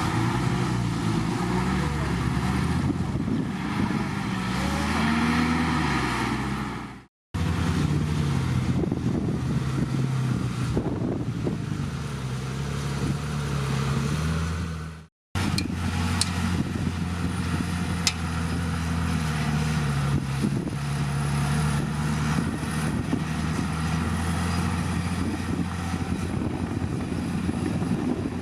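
Komatsu D51PX bulldozer's diesel engine running under working load, its pitch rising and falling as the load changes. The sound cuts off abruptly twice, about seven and fifteen seconds in.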